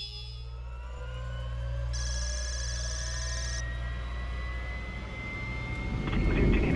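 Turbofan jet engines of a P-8A Poseidon running, with a steady low rumble and a whine that rises slowly in pitch. The sound gets louder near the end.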